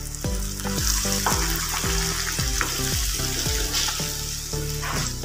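Green mint paste, thinned with water, sizzling in hot oil in a nonstick kadai while a wooden spatula stirs it. The frying hiss grows louder about a second in.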